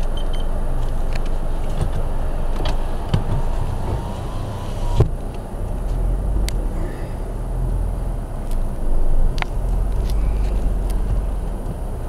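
Car wash sounds around a car: a steady low rumble with scattered knocks and clicks, the loudest about five seconds in.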